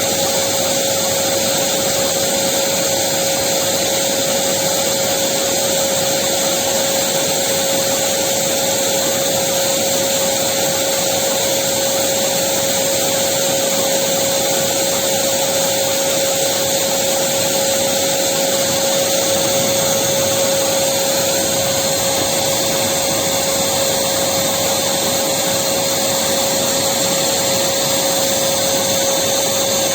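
Electric vacuum cleaner running steadily: a constant rushing of air with a steady motor whine.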